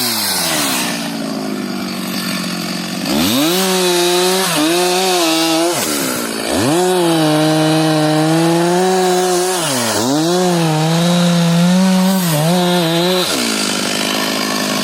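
Two-stroke chainsaw revved to full throttle three times for a few seconds each, falling back to idle between, with brief dips in revs mid-run as it cuts through timber.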